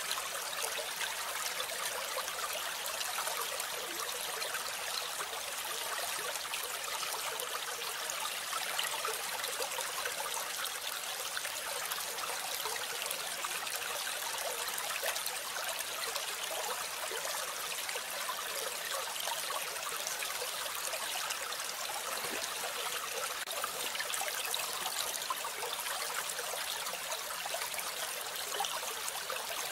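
Steady running water, a continuous trickling noise without breaks.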